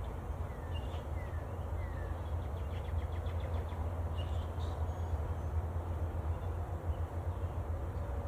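Small songbirds chirping: a few short falling chirps in the first two seconds, a quick trill about three seconds in, and a couple more chirps just after, over a steady low rumble.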